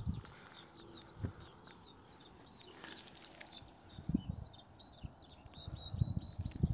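A songbird singing a long, unbroken run of rapid high chirping notes, with low gusts of wind buffeting the microphone at intervals.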